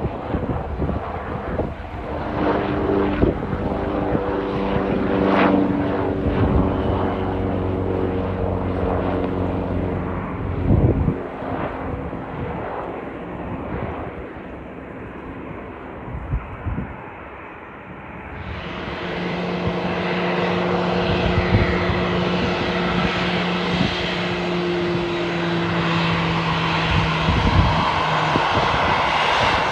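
Leonardo AW139 helicopter running with a steady turbine and rotor drone, then, after a cut about two-thirds of the way in, a Boeing 737-800's CFM56 jet engines running at taxi power with a steady whine.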